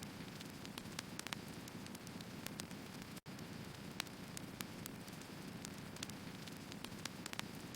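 Firewood burning: a steady low rush with irregular sharp crackles and pops from the logs. The sound cuts out for an instant about three seconds in.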